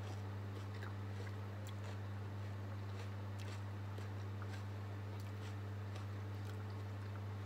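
A person chewing food with the mouth closed: faint, scattered small clicks over a steady low hum.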